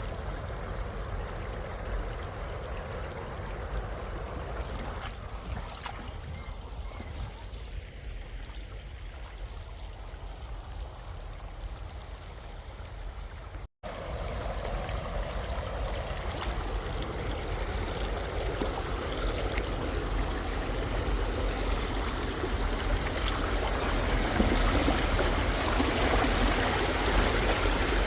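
Rushing flow of a stream's current, a steady wash of water. It breaks off for an instant about halfway through, then comes back and grows louder toward the end.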